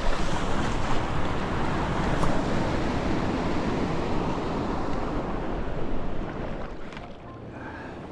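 Surf breaking and rushing around a kayak, a loud wash of water noise that dies down about six seconds in.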